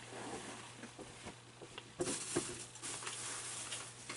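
Light clicks and rustling of small parts being handled, growing busier about halfway through, over a faint steady low hum.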